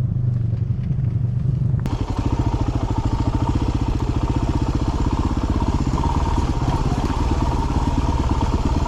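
Dirt bike engine running at low revs. About two seconds in, the sound suddenly becomes fuller, with a fast, even engine pulse and clatter from the rough trail, as the bike descends in first gear on engine braking.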